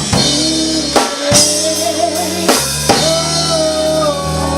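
A live band playing: about five drum kit hits with cymbal wash over a sustained, wavering melody line and a steady bass.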